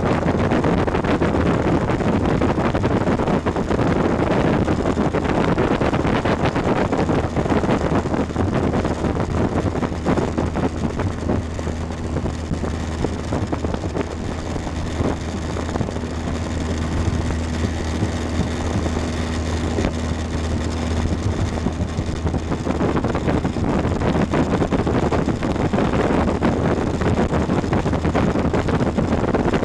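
Motorboat engine running steadily at speed, a constant low hum, with wind buffeting the microphone; the wind noise eases in the middle and picks up again near the end.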